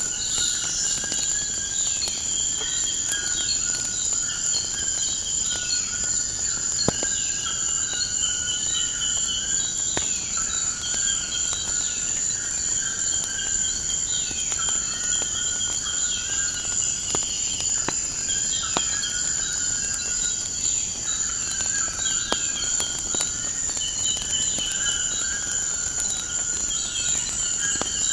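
Nature ambience: a steady, high-pitched insect chirring with repeated short chirping calls over it, and a few sharp isolated pops.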